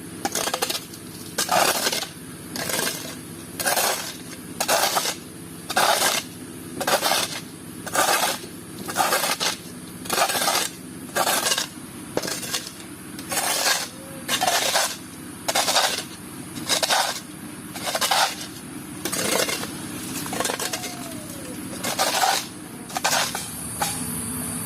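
A steel hand tool scraping and scooping through wet concrete mix in repeated strokes, about one a second.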